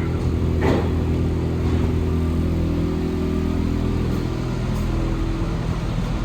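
Inside an Alstom NS-74 metro car: a steady drone of the train's traction and electrical equipment. Just under a second in there is a short sound as the doors close, and the drone changes slightly near the end as the train gets under way.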